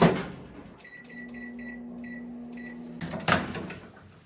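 Microwave oven: a run of short high beeps from its keypad, with its low running hum underneath. The hum stops with a loud clunk about three seconds in.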